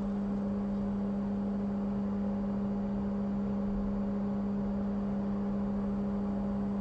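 Steady, even hum at one low pitch with fainter overtones and a light hiss, unchanging throughout: running bench equipment such as a fan or electrical unit.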